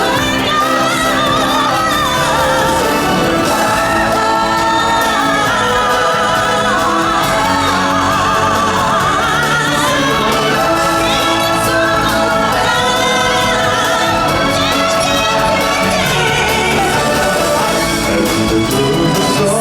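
Live stage-show music: a group of singers holding long, wavering notes over the accompaniment.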